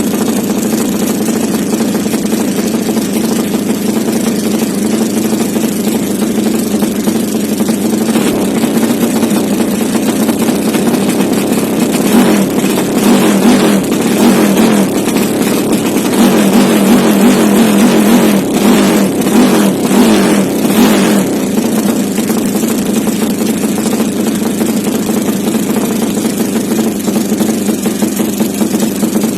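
Motorcycle engine running through a Pekajaman round stainless competition racing exhaust, idling steadily, then revved with a series of quick throttle blips from about twelve seconds in, revs rising and dropping back, before settling to idle again.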